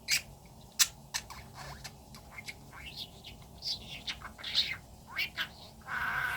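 Pet budgerigar chattering: a run of short high chirps, clicks and quick warbling notes, with a brief scratchy burst near the end.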